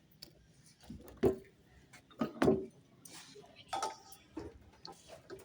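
A handful of sharp knocks and clunks of metal engine parts being handled and set against each other, the loudest two about a second and two and a half seconds in, with faint voices underneath.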